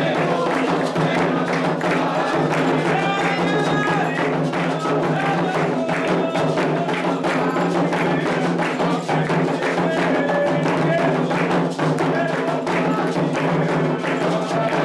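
Candomblé ritual drumming on atabaque hand drums, a dense steady rhythm played for Oxossi, with voices singing a chant over it.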